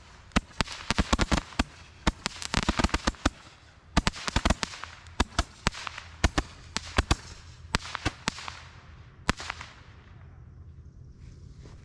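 Consumer fireworks going off: a rapid, irregular run of sharp cracks and pops that thins out and stops about nine seconds in.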